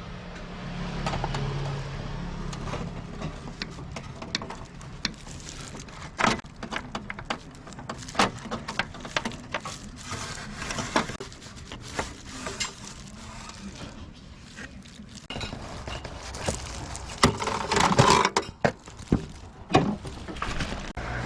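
Irregular clicks, knocks and clatter of hand work on a car's parts, busiest near the end.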